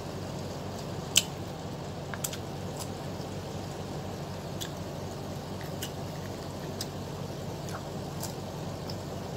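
Mouth sounds of someone eating ripe mango: scattered short, wet smacks and clicks, the loudest about a second in, over a steady low background hum.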